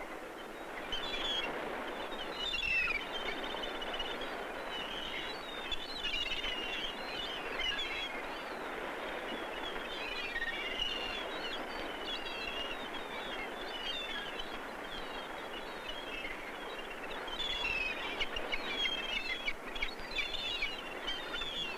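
A flock of gulls calling, many overlapping cries, over a steady rushing noise.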